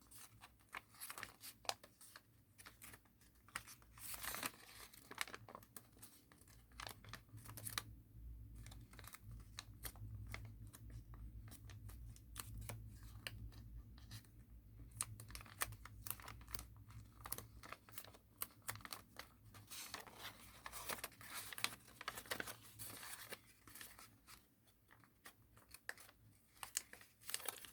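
Thin origami paper being folded and creased by hand: scattered crinkles and rustles, quieter for a while in the middle, over a faint low hum.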